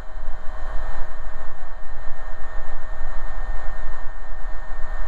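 AgustaWestland AW119 Koala helicopter in flight, its single turbine engine and rotors making steady cabin noise: a low rumble under a constant whine.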